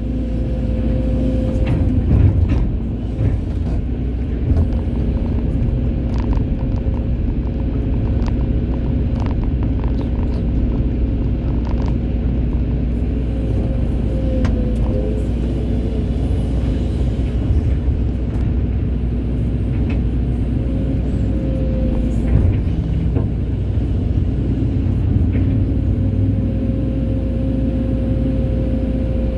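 Hydraulic excavator's diesel engine running steadily with a low rumble and a constant hum, with scattered short knocks.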